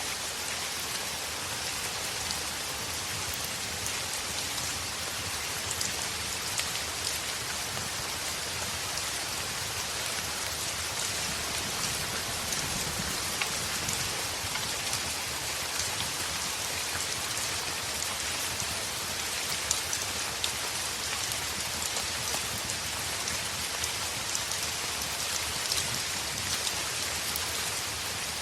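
Heavy rain falling steadily on a window, an even hiss with scattered sharp ticks of drops striking.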